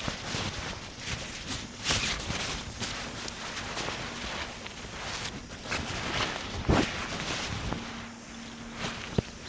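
Irregular footsteps and rustling scuffs on the ground outdoors, with a few sharper knocks, the loudest nearly seven seconds in.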